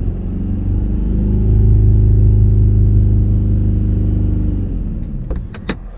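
Mercedes E 220 CDI four-cylinder diesel engine running under load, heard from inside the cabin as a steady low drone that swells over the first second or so and dies away near the end. Rubber blocks are wedged under the worn rear mount, and the drone is quieter for it. Two sharp clicks come just before the end.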